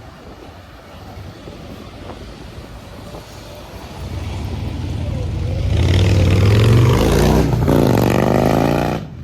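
A motor vehicle's engine getting louder as it comes close, then dropping in pitch as it goes past. The sound cuts off abruptly near the end.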